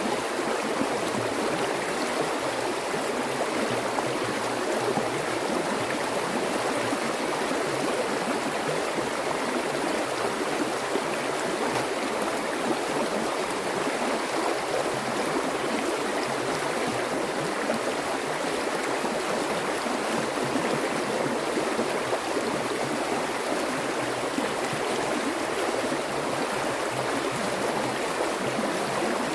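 Water flowing steadily in a stream, an even rushing and splashing sound.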